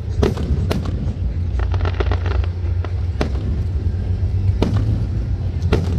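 Fireworks going off: sharp bangs every second or so, with a quick run of crackling about two seconds in, over a steady low rumble.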